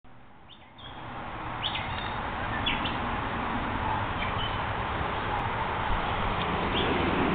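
Steady outdoor hiss with a few short, high bird chirps scattered through it.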